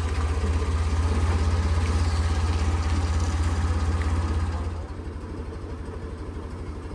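Engine running steadily with a low, even throb. It drops to a quieter level about two-thirds of the way through.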